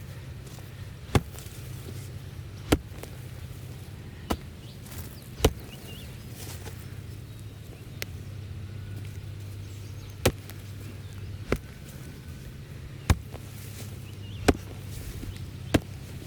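A tool striking in a slow, uneven chopping rhythm: about ten sharp blows, one every second or two, over a faint steady hum.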